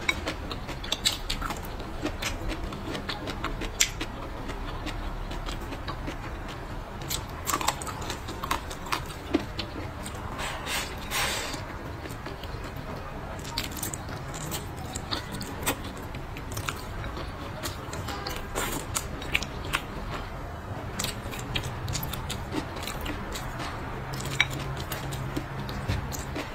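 Close-miked eating sounds: chewing and biting, with frequent small clicks and scrapes throughout, over a steady low hum.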